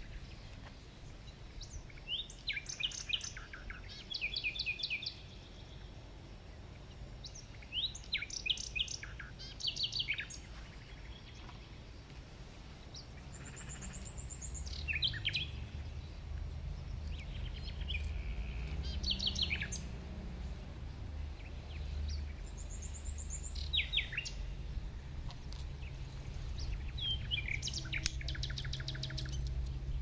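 Small birds chirping and singing in short bursts of quick high notes every few seconds, over a low rumble that grows louder from about halfway, with one sharp click near the end.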